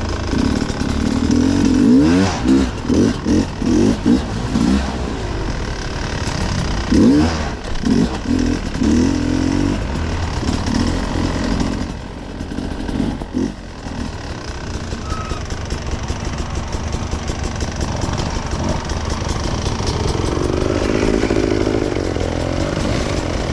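Off-road enduro motorcycle engine revved in short, repeated bursts, several quick blips in the first few seconds and again about seven seconds in. It then runs more steadily, rising again near the end.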